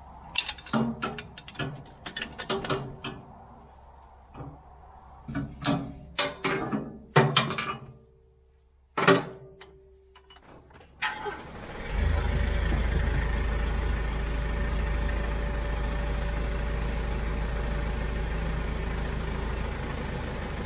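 A run of sharp metal clicks and clanks. Then, about twelve seconds in, a compact tractor's diesel engine comes in and runs steadily with a low rumble.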